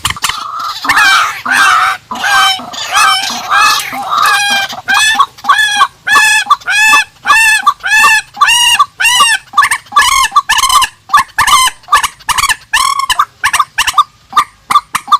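A rail calling: a long, rapid series of loud, arching nasal calls, about two a second, settling into a steadier rhythm about five seconds in.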